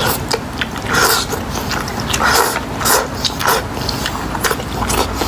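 A person eating noodles close to the microphone: irregular chewing and biting sounds.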